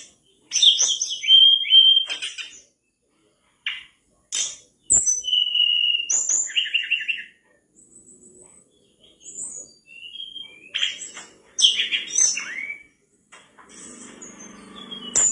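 Tledekan bakau (mangrove blue flycatcher) singing hard in a string of short phrases of clear high whistles and quick trills, separated by brief pauses. A faint low hum sits under the song near the end.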